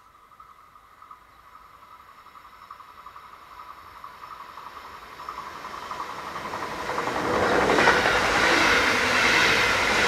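Stadler KISS double-deck electric multiple unit approaching and passing at speed. It starts faint with a thin steady whine, then grows steadily into loud rolling noise, loudest over the last two or three seconds as it goes by.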